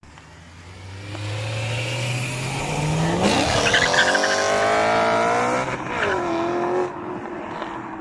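BMW M3 E92's naturally aspirated 4.0-litre V8 revving hard as the car comes past. The note climbs slowly, then surges sharply upward about three seconds in to a high-pitched scream. Near six seconds the revs drop once and hold lower, and the sound falls away near the end.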